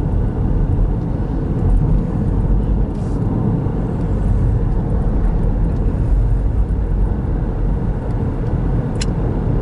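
Steady road and engine rumble heard inside a moving car's cabin, with one short sharp click near the end.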